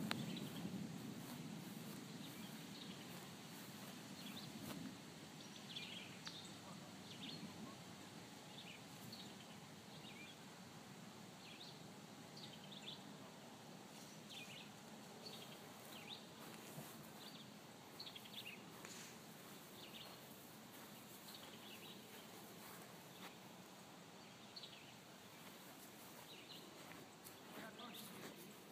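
Faint outdoor ambience with scattered short bird chirps at irregular intervals over a low, even background hiss.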